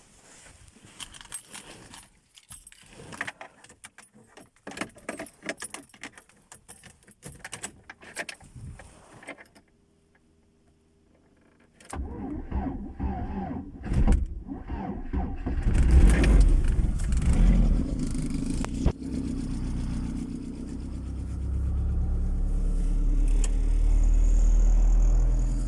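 Keys jangling and clicking for several seconds, then a short quiet gap. About halfway through, the VAZ-2110's 16-valve four-cylinder engine is cranked and catches on a cold start after standing unstarted for about two months, running unevenly at first and then settling into a steady run.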